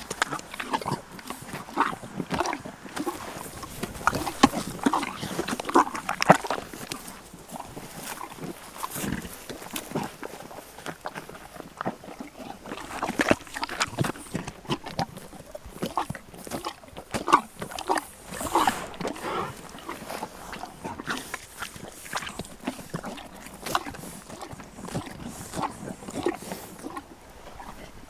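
Horses making a run of short, irregular sounds, one after another, with no steady rhythm.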